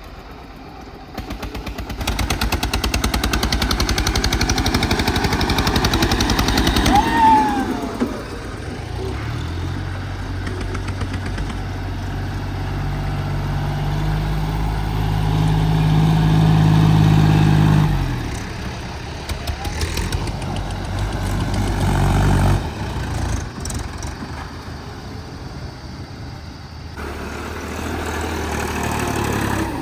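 Tractor diesel engine working hard, chugging loudly at first, then holding a steady note that climbs slowly before the revs drop away. It builds once more and falls back to a lower, quieter running near the end.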